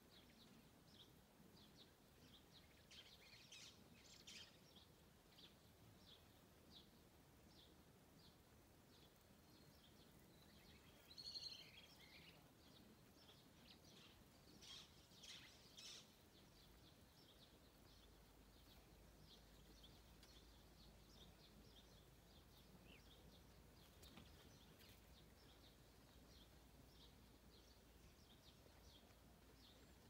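Faint birds calling in bushland: a steady series of short, high chirps, with a few louder calls, one near the middle falling in pitch.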